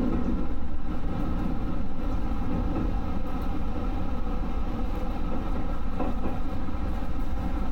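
JR West 221 series electric train running on the rails, heard from inside the train: a steady rumble of wheels and running gear with a constant hum.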